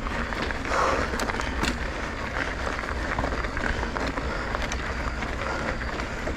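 Wind buffeting the microphone and road noise from a moving bicycle, with scattered light clicks and rattles.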